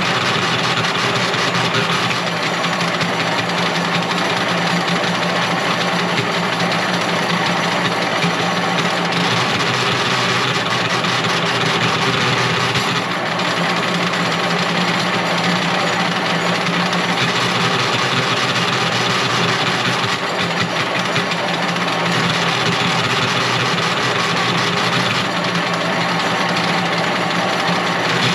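An engine or motor running steadily at a constant speed.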